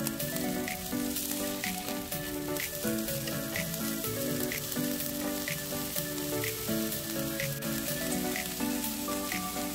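Pork belly, eggplant and lotus root sizzling steadily as they stir-fry in a frying pan. Background music with a simple stepping melody plays along.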